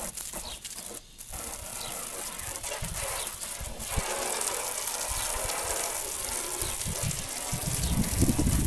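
Garden hose spraying water onto a truck's body to rinse off soap suds: a steady hiss of spray that breaks off briefly about a second in.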